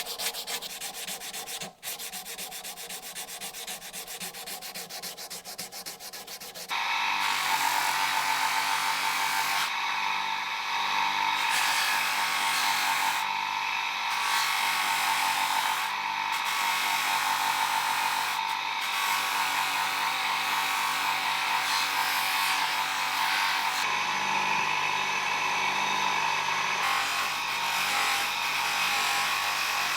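Abrasive sanding on a metal part, a continuous rubbing. About seven seconds in it gets louder and a steady tone joins it, then it runs on evenly.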